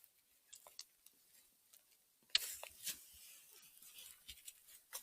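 Faint rustling and crisp snapping of dry forest-floor litter as a mushroom is picked and handled. There are a few light clicks early on, then a louder crackle about two and a half seconds in, followed by soft rustling.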